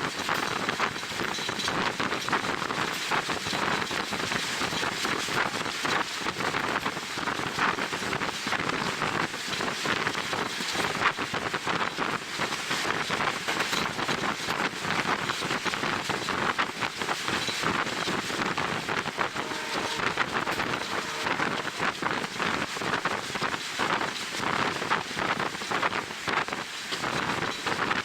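Wind buffeting the microphone of a camera on a moving train, a steady rushing noise with gusty flutter, over the train's running noise.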